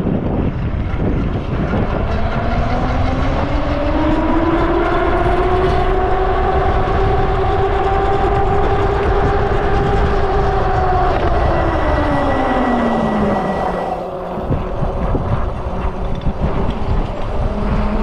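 Freego X2 electric dirt bike riding on the street: a pitched whine climbs as the bike speeds up over the first few seconds, holds steady, then falls away as it slows about twelve seconds in. Wind rushes under it throughout.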